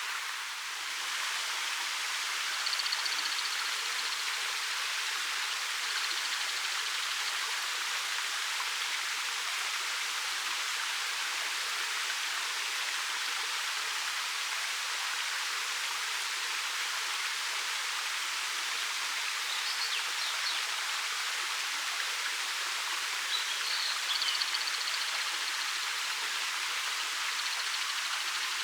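A 13 m waterfall flowing down a black rock face: a steady rush of falling water, an even hiss with no deep rumble.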